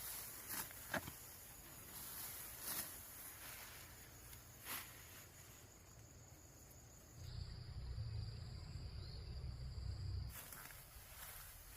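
Faint outdoor sounds: scattered short clicks and rustles, with a low rumble for about three seconds past the middle.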